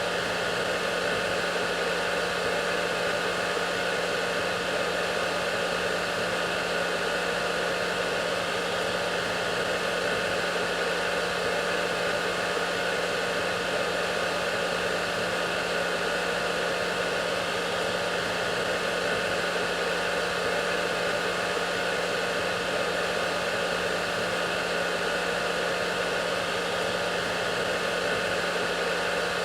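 Hair dryer running steadily: an even rush of air over a constant low motor hum, unchanging throughout.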